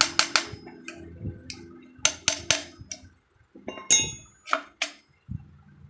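Sharp metal taps and clinks from hand work on engine parts: a quick run of taps at the start, a few single knocks, then a ringing clink and two more taps near the end.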